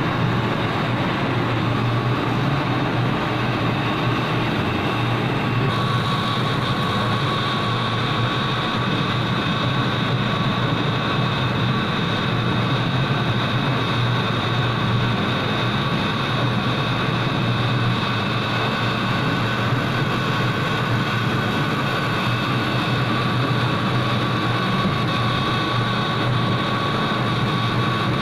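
Laser cutting machine running steadily through a cut, with a constant low hum and several steady whining tones; a higher whine joins about six seconds in.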